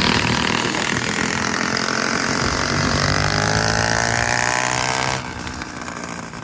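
Riding lawnmower's small engine running under load, its note climbing slightly, then falling away in level about five seconds in.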